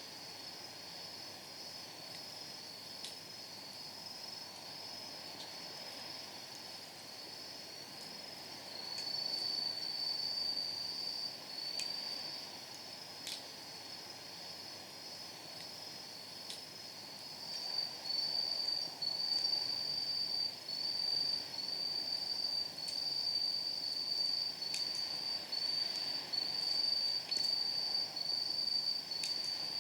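Night insects chirping in rapid, pulsing high-pitched trills, growing louder about nine seconds in and again from about eighteen seconds. A few sharp pops of burning firewood crackle over them.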